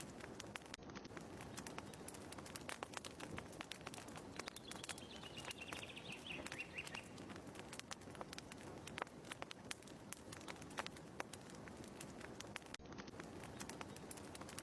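Fireplace fire crackling softly, with irregular sharp pops over a low hiss. A short descending chirp sounds about five seconds in.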